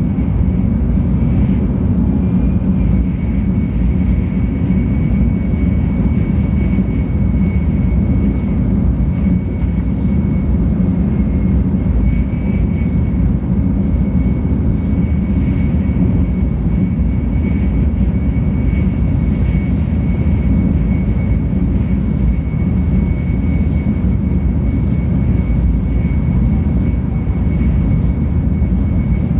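Cabin noise inside a 700 series Shinkansen running at speed: a steady low rumble from the running gear, with a faint steady high whine.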